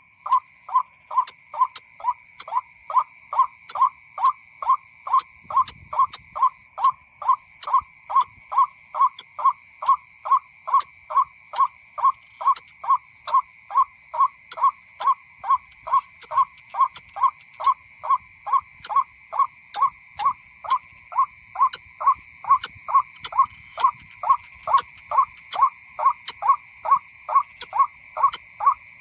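White-breasted waterhen call: a short, harsh note repeated over and over at an even pace, about two and a half a second, over a steady high drone.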